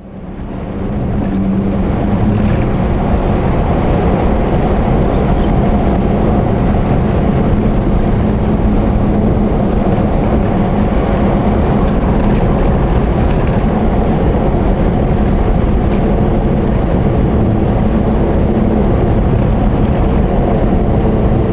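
A vehicle on the move: steady engine and road noise that fades in over the first two seconds, then holds even and loud.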